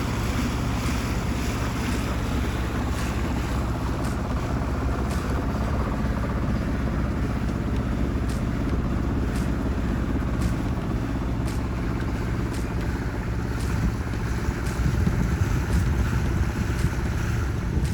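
Boat under way: a steady low engine drone with wind rushing across the microphone, and no change through the stretch.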